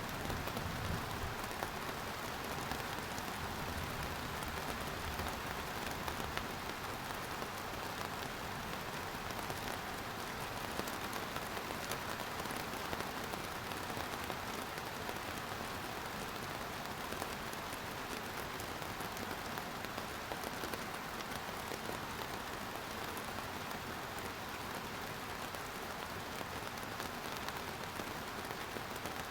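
Steady rain falling, an even hiss with many small drop patters on surfaces.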